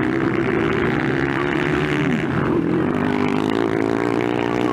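Several motocross motorcycles' engines running together, their pitches rising and falling as the riders rev and ride.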